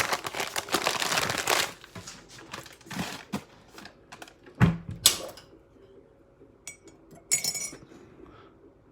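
Kitchen clatter from dishes and utensils being handled. A dense run of rapid clicking and rattling opens it. Scattered clicks and knocks follow, with a low thump about halfway and a short bright clink a couple of seconds later.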